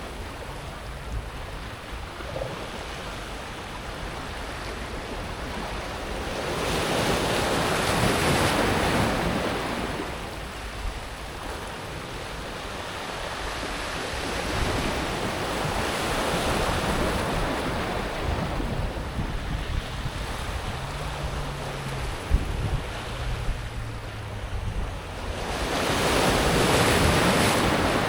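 Sea waves breaking and washing over a pebble beach, a steady rush that swells twice into louder wave crashes, about a third of the way in and again near the end.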